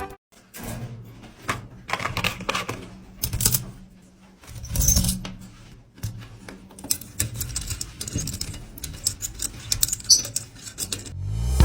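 Irregular clicks, knocks and rustling, like objects being handled or clattering, over a faint low hum.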